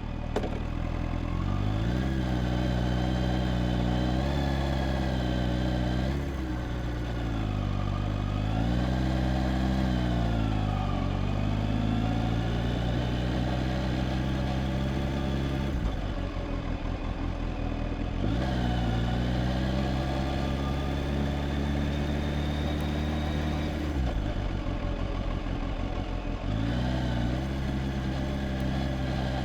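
Kawasaki Z H2's supercharged inline-four engine running under way, its note rising and falling repeatedly with the throttle. The engine note drops out briefly twice, about halfway through and again about two-thirds through.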